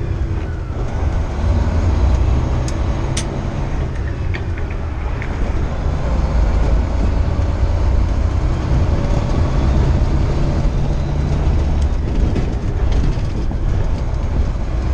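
Semi truck's diesel engine and road noise heard from inside the cab while driving: a steady low rumble.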